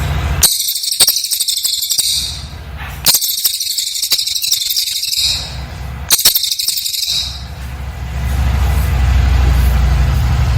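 A cililin bird singing in three dense bursts of rapid, very high-pitched notes (its "nembak" shooting song), with short regular pauses between them. From about three-quarters of the way in, a steady low rumble takes over.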